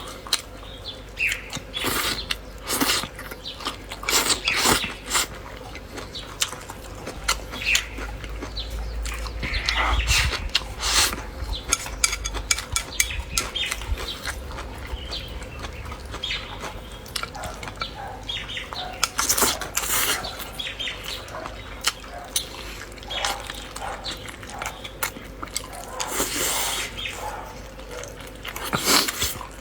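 Close-up eating sounds: irregular wet chewing, lip smacks and mouth clicks.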